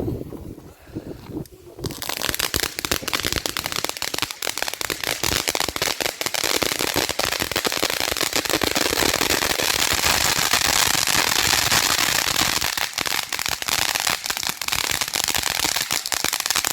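A consumer ground firework crackling densely. A rapid, continuous stream of sharp pops starts about two seconds in and keeps going, thickest in the middle.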